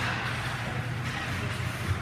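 Ice hockey rink ambience during play: a steady low hum under a hiss of noise, with a faint knock near the end.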